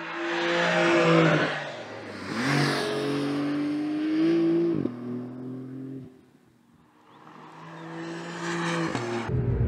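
Porsche 911 flat-six engine and exhaust under hard acceleration. The engine note climbs in pitch and drops sharply at upshifts about two and five seconds in, then fades away and builds again as the car comes back.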